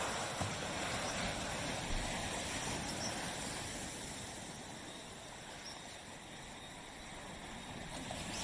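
Waves on a tropical beach: the wash of surf fades away, then builds again near the end as the next wave comes in.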